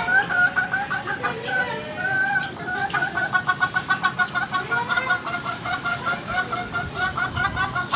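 Aseel chickens clucking: a few short pitched calls, then from about three seconds in a fast, even run of repeated clucks, about six a second.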